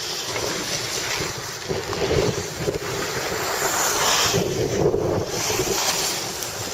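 Wind buffeting the microphone on a snowy ski slope: a loud rushing noise that swells in gusts about two seconds in and again a little past four seconds.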